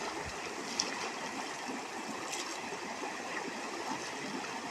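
Shallow river water rushing steadily over rocks, a rain-swollen stream running high.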